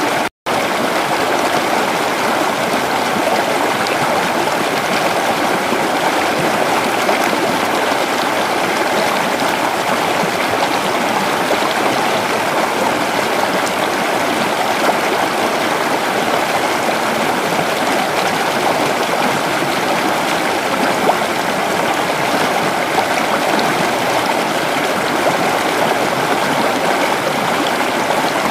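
Creek water flowing steadily over stones, an even rushing and babbling. There is a momentary cut to silence about half a second in.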